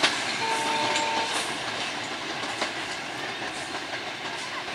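A passenger train's coaches rolling away along the track and slowly growing fainter. The wheels clack over the rail joints with a few sharp clicks, and there is a brief steady squeal about half a second in.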